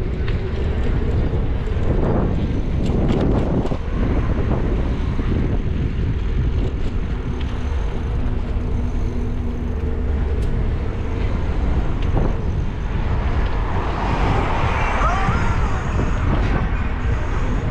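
Steady low rumble of a car driving along a busy city street, with road and traffic noise.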